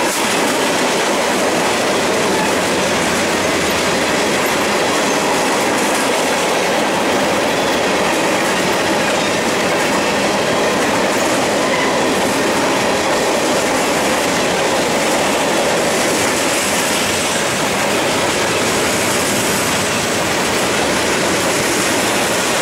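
A freight train's tank cars and covered hopper cars rolling past close by, giving a steady noise of steel wheels on rail.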